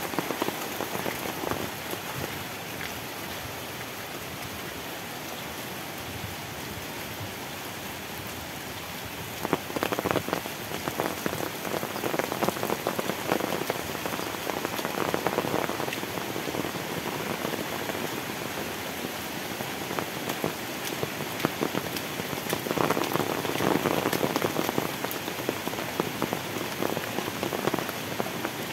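Heavy tropical rain falling steadily, a dense patter of countless drop ticks that swells louder about ten seconds in and again a little past twenty seconds.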